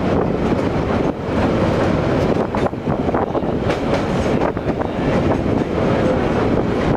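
Passenger train running along the track, heard from on board: a steady rolling rumble of wheels on rails with scattered short clacks.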